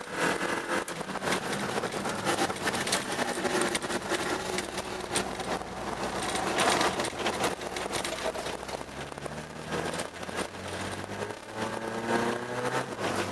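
Car engine heard from inside the cabin, its revs rising and falling as the car slides and drifts over an ice track. A dense scatter of short clicks and knocks runs under it, with the revs climbing near the end.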